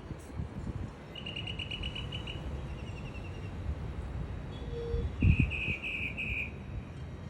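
Small birds chirping: a quick run of about eight short, high chirps a little after a second in that fades out, then four louder chirps about five seconds in. Low rumbling noise with a few dull thumps lies underneath.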